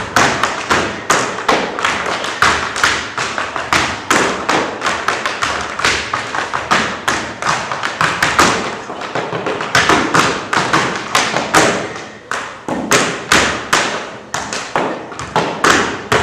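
Tap shoes striking a wooden stage floor in fast, uneven runs of sharp taps, several a second, the percussive footwork of tap dancing.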